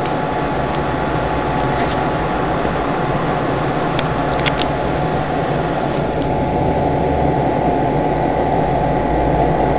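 BGA rework station's hot-air blower running steadily while it heats a laptop chipset for reflow, a constant rushing noise with a faint steady whine in it. A couple of faint ticks come about four seconds in.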